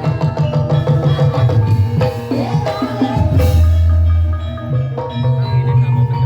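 Live gamelan accompaniment for Banyumas ebeg: ringing metallophone tones over drum strokes, with a melodic line that slides up and holds about two and a half seconds in.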